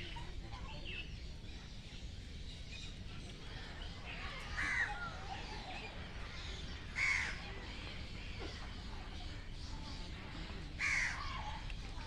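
Three short harsh bird calls: one about a third of the way in, another about two seconds later, and one near the end, over steady low background noise.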